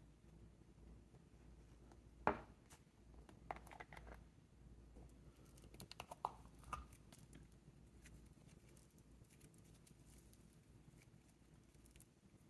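Slime being played with by hand, heard as a few soft clicks and small pops: the loudest about two seconds in, a few more around four and six seconds, then near quiet.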